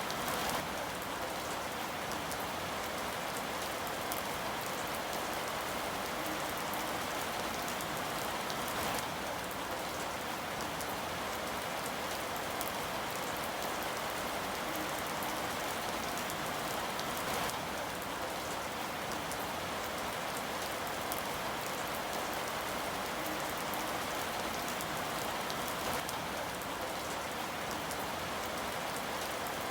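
Steady rain falling, an even, unbroken hiss of many drops with no let-up.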